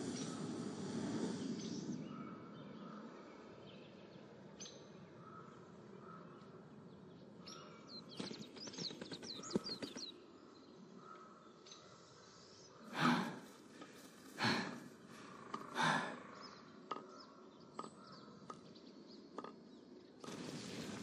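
Quiet outdoor nature ambience with small birds chirping. A breathy haze fades away in the first two seconds, a quick run of chirps comes near the middle, and three louder short sounds follow about a second and a half apart.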